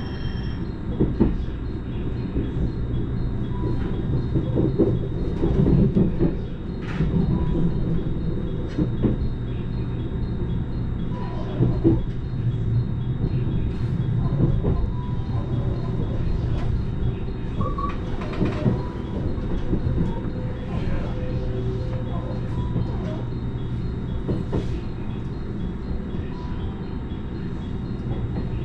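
Cabin running noise of a JR Kyushu 885 series electric limited express train: a steady low rumble with a constant hum and scattered clicks and knocks from the wheels and carriage.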